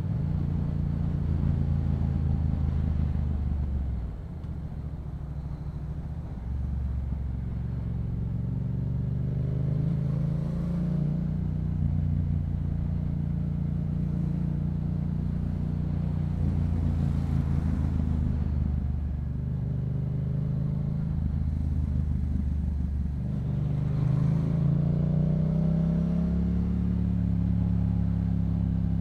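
Yamaha MT-07's parallel-twin engine through a Yoshimura aftermarket exhaust, running under way at low speed. Its pitch rises and falls with the throttle, easing off about four seconds in and rising again near the end.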